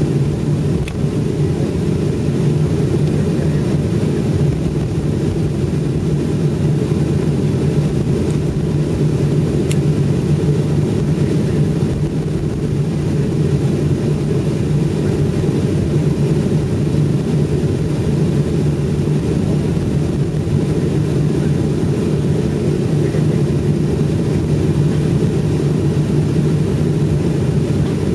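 Steady low rumble inside a jet airliner's cabin after landing, with a constant deep hum, from the engines idling and the cabin air system while the aircraft taxis in.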